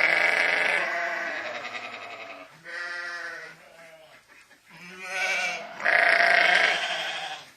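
A sheep bleating several times, in long wavering calls with a shorter one in between.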